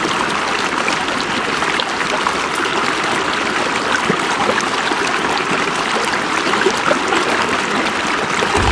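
River water flowing steadily over stones, a constant rush with small splashes and trickles through it.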